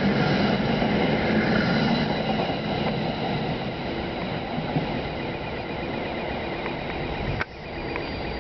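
New Jersey Transit commuter train's last coaches and Comet V cab car rolling past on the rails and pulling away, the rumble of wheels on track fading as it departs. The sound dips briefly near the end.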